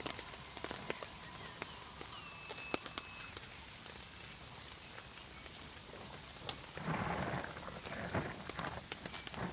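Steady rain falling, with individual drops ticking sharply now and then. From about seven seconds in, a louder rough scuffing noise comes and goes over the rain.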